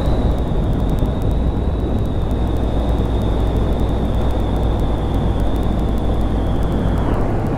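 Honda Grom 125's small single-cylinder four-stroke engine running steadily under way, with heavy wind rush. A steady high whine runs over it and dips briefly near the end.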